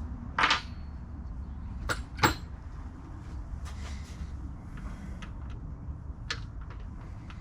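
Hand tools being handled while a half-inch wrench is readied for the carburetor nuts: a short scrape about half a second in, then a few sharp clicks and knocks, the loudest about two seconds in, with fainter ones later, over a low steady rumble.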